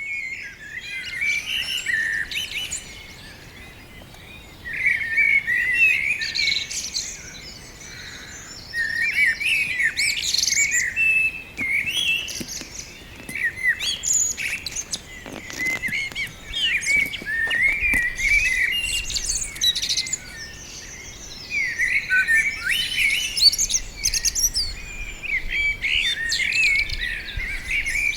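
Several songbirds singing and chirping in quick, twittering bouts of high phrases, with short lulls between bouts.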